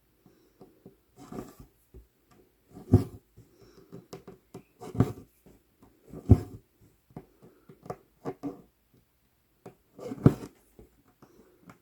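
Cross-stitching on 11-count Aida: the needle punches through the taut cloth and floss is drawn through, giving irregular soft clicks and rustles with four louder thumps.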